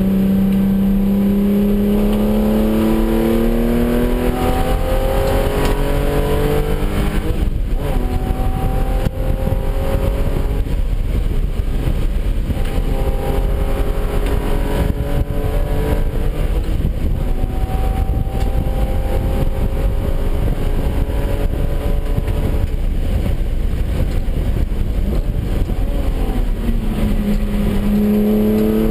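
Porsche 996 911's flat-six engine heard from inside the cabin under hard acceleration, rising in pitch through the gears with a brief break at each upshift. Near the end it drops in pitch as the car slows, then starts pulling again.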